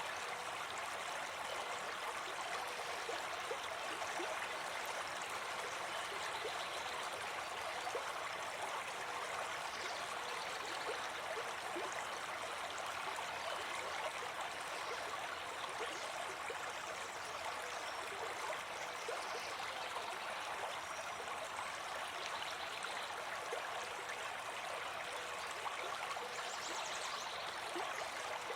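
A brook babbling, with a steady, even rush of flowing water.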